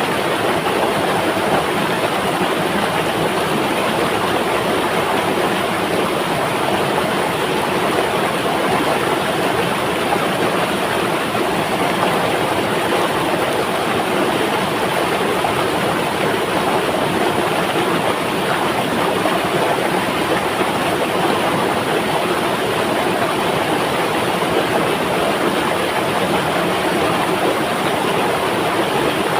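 Flowing river water making a steady, unbroken rushing sound.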